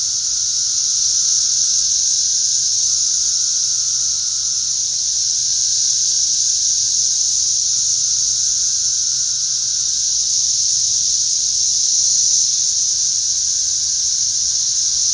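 Loud, dense chorus of periodical cicadas: one steady, high-pitched drone that holds without a break.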